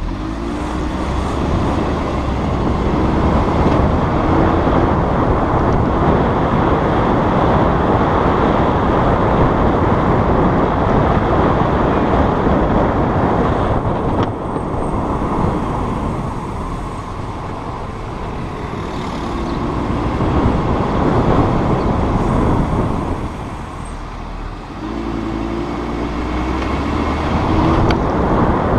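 Audi RS3 sedan driving: steady road and running noise that swells and eases in level, with no clear brake squeal.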